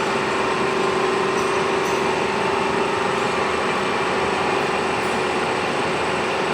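500 kg copper melting furnace running: steady machine noise with a constant mid-pitched hum.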